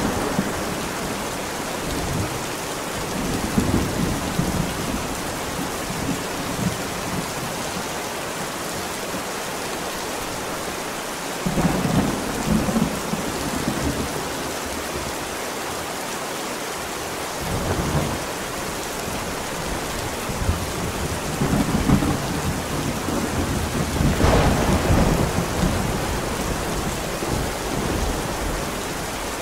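Heavy rain falling steadily, with rolls of thunder rumbling in again and again, the strongest one late on. The storm is mixed as 8D audio, panned around the listener's head.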